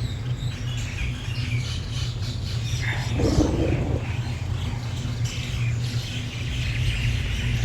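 Bird chirping in short, scattered notes, with one louder call about three seconds in, over a steady low hum.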